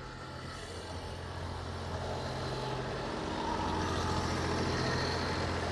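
A small David Brown tractor's engine running steadily as it approaches and passes, growing louder over the first few seconds.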